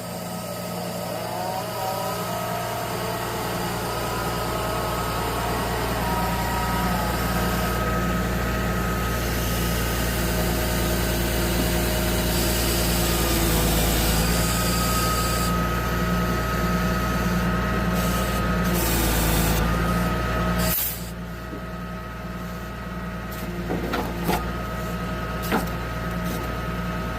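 Self-loading log truck's diesel engine running steadily at raised revs to drive the hydraulic log loader as it is folded away, then dropping suddenly to a quieter idle about 21 seconds in. A few sharp clanks near the end.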